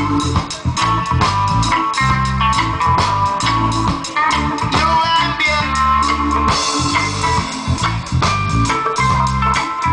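Reggae band playing live, a mainly instrumental passage: guitar over a bass guitar line and drum kit keeping a steady beat.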